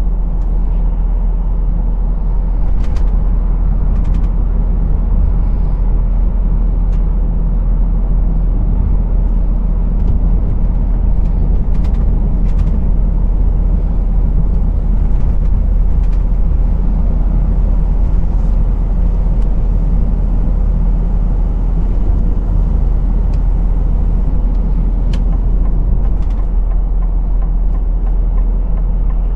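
Lorry's diesel engine running steadily, a low drone heard from inside the cab, with a few brief clicks now and then.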